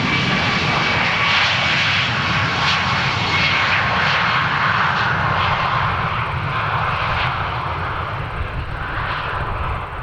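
Boeing 737 MAX 8's CFM LEAP-1B jet engines at takeoff thrust: a steady jet rumble with a faint fan whine that dips slightly in pitch and begins to fade over the last few seconds as the airliner moves away.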